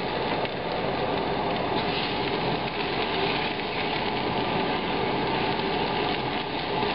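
Minced ginger and garlic sizzling steadily in hot peanut oil in a stainless steel pan as they are stirred.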